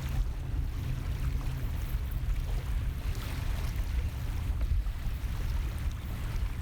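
Steady low rumble under an even hiss of wind and water, with no distinct events.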